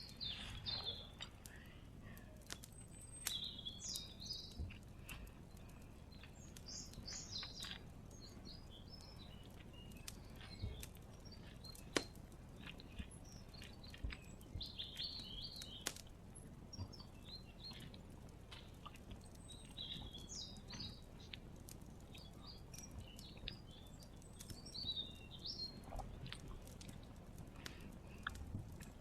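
Small birds chirping in short bursts every few seconds, mixed with scattered sharp clicks over a faint low background rumble.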